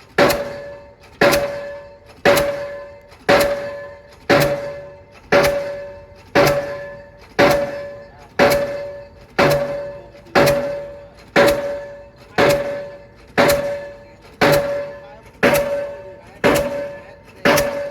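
Delmag D46-32 diesel pile hammer driving a 450 mm precast concrete pile, striking steadily about once a second. Each blow is a sharp strike followed by a clear metallic ring that fades away before the next one.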